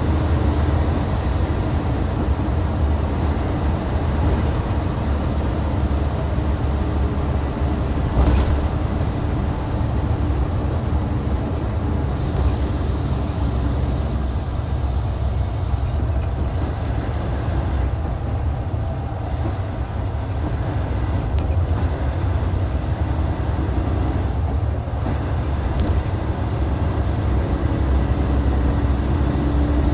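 Hyundai D6CC Powertec 380 inline-six diesel of a Hyundai Universe coach running steadily, with a deep low hum throughout. A sharp click comes about 8 seconds in, and a hiss of air lasts about four seconds midway.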